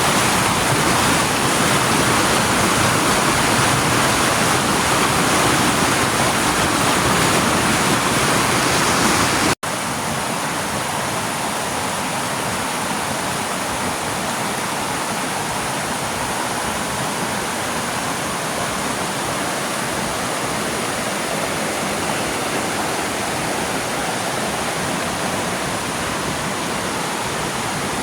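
Waterfall rushing in a steady roar of falling water. About a third of the way through it cuts off for an instant and comes back quieter, with less low rumble.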